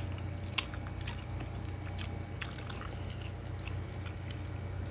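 People chewing and eating rice and stew with their hands: scattered small mouth clicks and smacks over a steady low hum.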